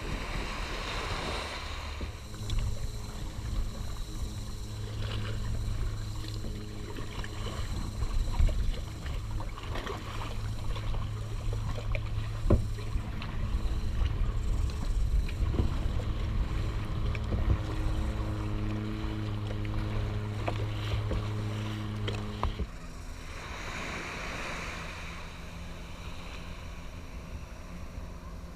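A boat engine running steadily at one pitch, over water and wind noise with scattered splashes and knocks. The engine hum cuts off suddenly about 23 seconds in, leaving a rush of water and wind.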